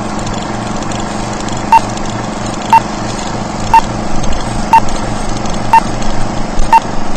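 Electronic countdown pips: six short, identical beeps one second apart over a steady hum, in the manner of a broadcast time signal.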